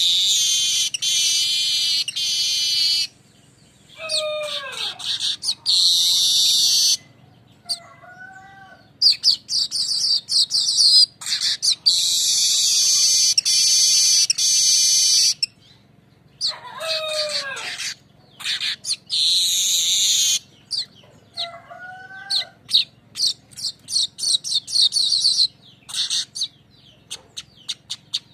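Manyar weaver singing its rolling song: long high buzzing, sizzling trills of two to three seconds, repeated several times, with lower sliding whistled notes between them and a fast run of short chattering notes near the end.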